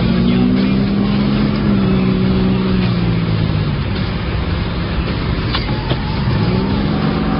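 Car engine running, likely the 1989 Chevrolet Beretta GT the video was filmed in. Its pitch eases down over the first few seconds, fades back in the middle, and rises again near the end.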